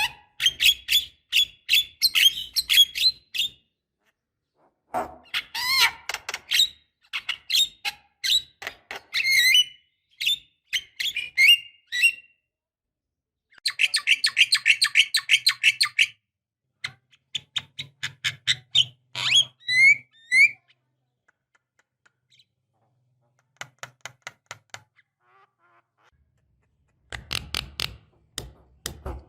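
Javan myna singing: bursts of rapid chattering and clicking notes broken by short pauses, including a fast even run of about ten notes a second midway and a few short upward-sliding whistles.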